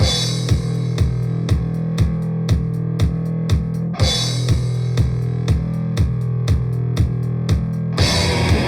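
Grindcore track opening: distorted guitar and bass holding a low riff over a steady drum beat, kick drum about twice a second, with cymbal crashes at the start and about four seconds in. Near the end it breaks into a faster, denser section.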